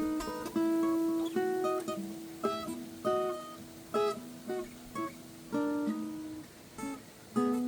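Steel-string acoustic guitar in standard tuning playing single picked notes one after another, some ringing on over the next, as a blues scale-pattern run.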